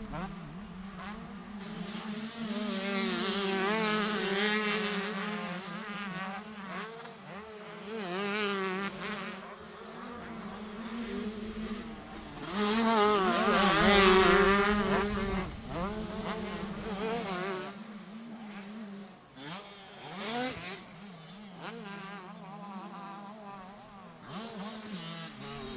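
125cc two-stroke motocross bikes racing, their engines revving up and down sharply as they work the throttle and gears. They are loudest as bikes pass about three seconds in and again around fourteen seconds in.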